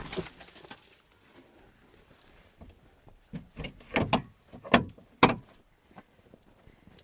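Sharp metallic clanks and rattles, a cluster of them from about three seconds in and two loud single clanks near the end, as the cab latch and tilt gear of a KAMAZ 4310 truck are worked to lift the cab.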